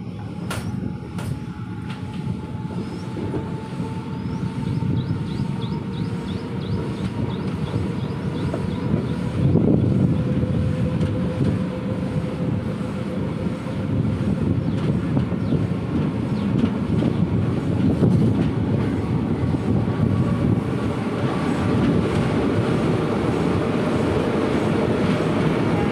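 Passenger train running at speed, heard from an open carriage door: wheels running on the rails with a steady rumble. A faint whine slowly rises in pitch.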